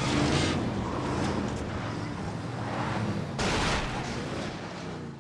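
Vehicle engine and road rumble from a TV drama's soundtrack, with a louder swell about three and a half seconds in, fading away near the end.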